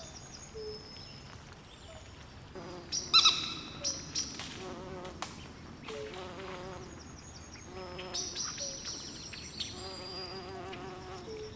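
Swamp wildlife chorus of frogs, insects and birds: overlapping high chirps and wavering buzzy trills, with one loud, sharp call about three seconds in.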